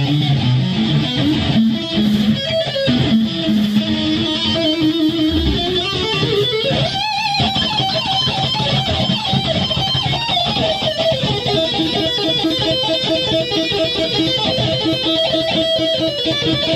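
Electric guitar playing a lead line in rock music: a note bent upward and held with vibrato about seven seconds in, then rapid repeated notes.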